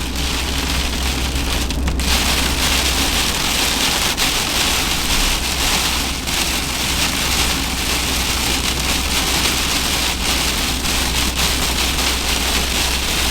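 Heavy rain pelting a van's roof and windows, heard from inside the van as a dense, steady hiss over a low rumble. The rain grows heavier about two seconds in.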